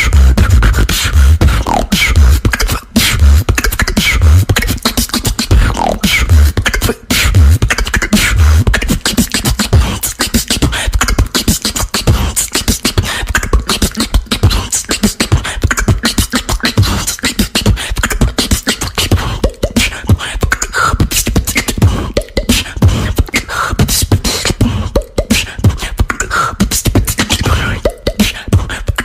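Beatboxing: a person's vocal percussion, a fast, dense run of mouth-made hits and clicks with deep bass tones, strongest in the first several seconds. There are two brief breaks, about three and seven seconds in.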